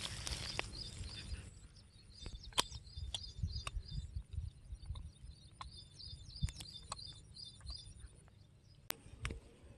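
A bird calling in a quick series of short, high chirps for several seconds, over a low rumble of wind on the microphone. A few sharp clicks sound now and then.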